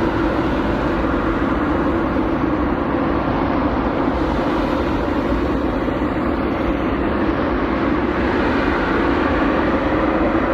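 Boeing 787-9 jet engines at takeoff thrust as the airliner starts its takeoff roll: a loud, steady rushing noise with a low hum under it, growing slightly near the end.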